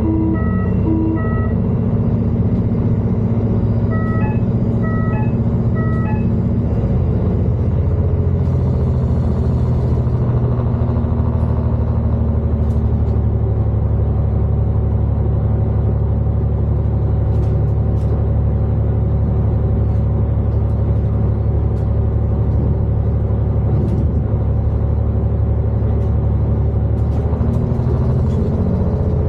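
A Class 221 Super Voyager diesel train's engines run with a steady low rumble. A short series of regular electronic beeps sounds at the very start and again about four to six seconds in.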